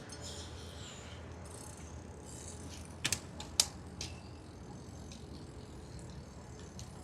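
Bicycle being ridden: a steady low rumble, with a few sharp mechanical clicks and rattles about three seconds in.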